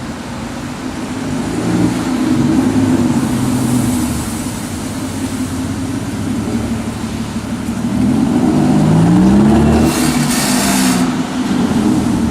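Aston Martin Rapide's V12 engine and exhaust revving, the engine note climbing in pitch about two seconds in and again around eight seconds, with a short rush of noise at about ten seconds.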